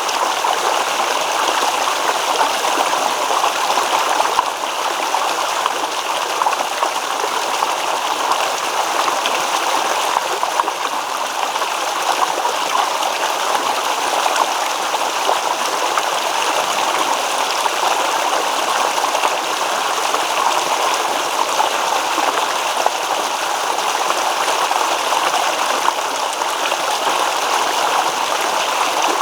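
Shallow stream babbling steadily, water splashing and gurgling over stones.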